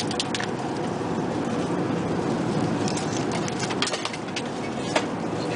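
Steady in-flight cabin noise of an Airbus A380, with scattered light clicks and clinks and a sharper click about five seconds in.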